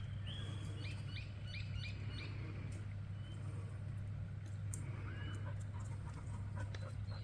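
Birds calling: a quick run of chirps in the first two seconds and a short call around five seconds in, over a steady low hum.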